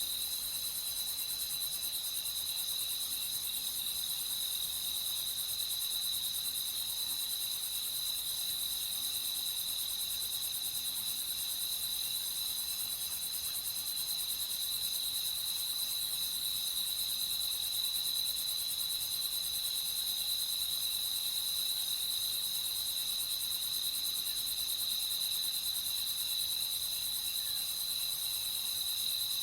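Crickets chirring steadily in a night chorus, a continuous high trill with no pauses or changes.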